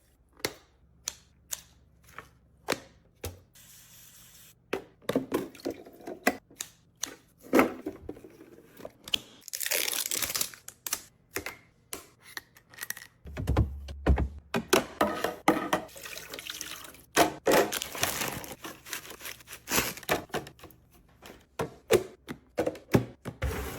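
Groceries and containers being handled and set down in a fridge: a run of sharp clicks and knocks of plastic and glass, with a few seconds of running or pouring water about ten seconds in.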